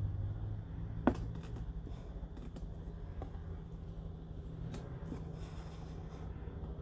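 Light clicks and taps of hand tools being handled, with one sharper click about a second in, over a steady low hum.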